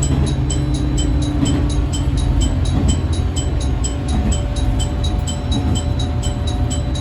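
Diesel railcar running along the line, heard from inside the driver's cab: a steady engine drone over the low rumble of the wheels on the rails, with a fast regular ticking, about four ticks a second.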